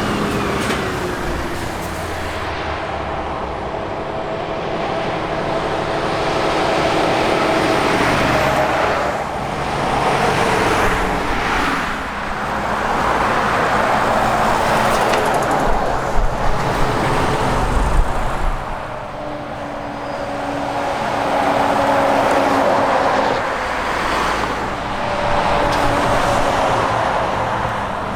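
Road traffic with heavy trucks and other vehicles driving past one after another. Diesel engine and tyre noise swells and fades with each pass, the engine notes falling as the vehicles go by. A few sharp knocks come about two-thirds of the way through.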